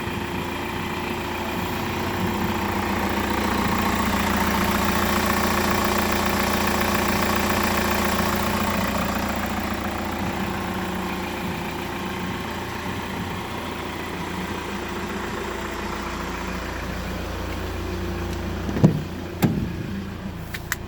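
Hyundai iLoad's 2.5-litre four-cylinder turbo-diesel engine running steadily at idle during an engine test, reported by the seller as tested good. It grows louder for a few seconds and then eases back. Two sharp knocks come near the end.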